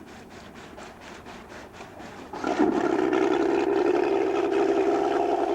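Racing powerboat engine running at speed. It comes in suddenly and loud about two seconds in and stays steady, after a fainter, regularly pulsing noise.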